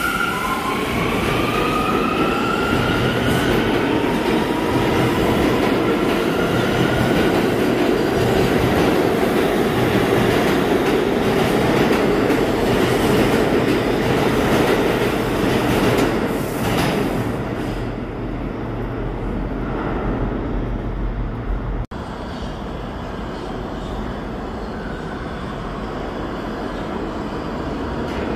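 A New York City subway train accelerating along the platform: its motor whine rises in pitch over the first few seconds, then gives way to the steady rumble and clatter of the cars, which eases off after about 17 seconds. A sudden break follows a few seconds later, and after it the train noise is quieter.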